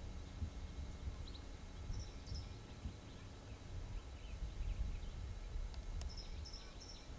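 Small birds giving short high chirps in a few clusters, about two seconds in and again near the end, over a steady low rumble.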